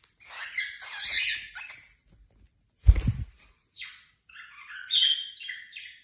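A bird calling: harsh, noisy squawks through the first two seconds, then a run of short chirps near the end. A single low thump comes about three seconds in.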